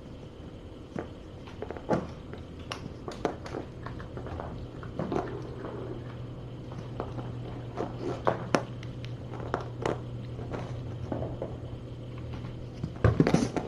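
Kittens crunching dry kibble: scattered small crunches and clicks over a steady low hum.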